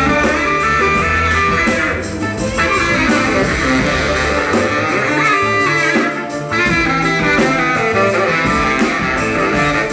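Soul band playing live, with a brass horn section and guitar over bass and drums.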